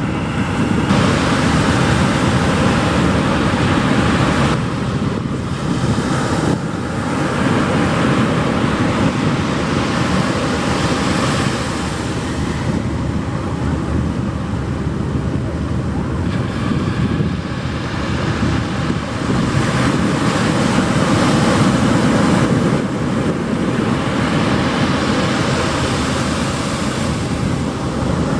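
Pacific Ocean surf breaking on a sandy beach: a continuous wash of waves that swells and eases every few seconds.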